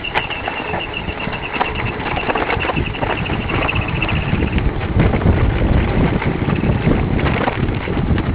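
Mountain bike rattling over rough ground on a fast descent, with wind buffeting the microphone. A high, pulsing whine runs through the first half and fades about four and a half seconds in, and the low rumble grows louder from about five seconds in.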